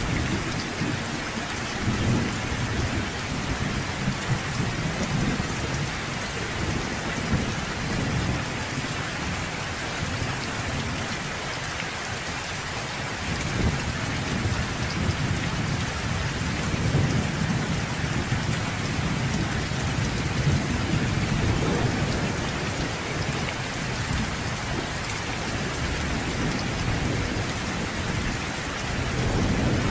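Steady rain with low thunder rumbling that swells and fades, loudest near the start and again in the middle stretch.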